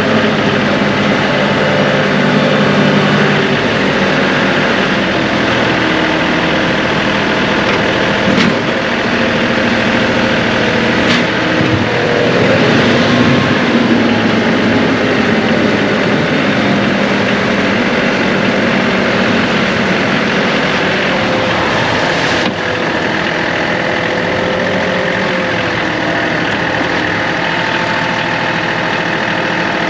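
John Deere 2038R compact tractor's diesel engine running steadily, with its pitch shifting now and then as the revs change, and a few faint knocks.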